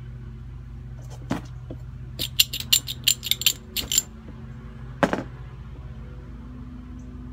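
Sharp metallic clicks and clinks, about nine in quick irregular succession, between two duller knocks, over a steady low hum: metal tools and parts being handled while a torch is set up.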